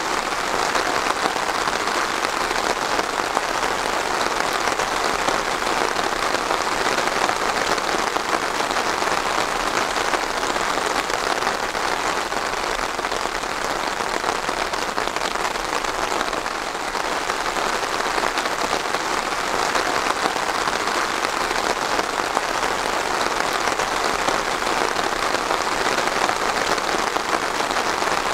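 Steady rain falling on a hard surface, a dense, even patter.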